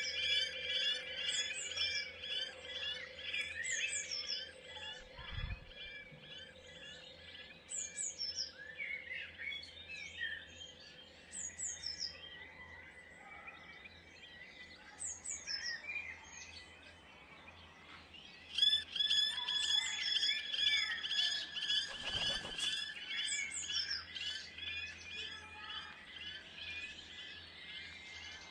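Garden birds at feeders calling with many short high chirps. A rapid, buzzy rattling chatter fills the first few seconds, fades, and starts again loudly about two-thirds of the way through. Two dull low thumps come, one early and one late.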